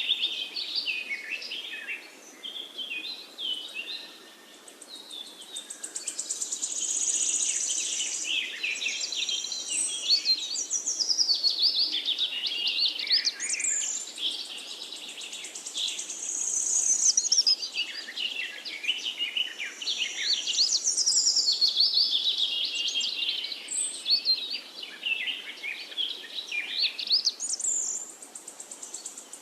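A chorus of several songbirds singing together, with many quick chirps, whistles and trills overlapping and swelling and fading in waves, over a faint steady hiss.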